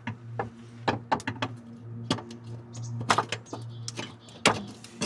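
Irregular knocks, clicks and clunks as a car's gas tank and its mounting bracket are shifted and seated under the vehicle, over a steady low hum.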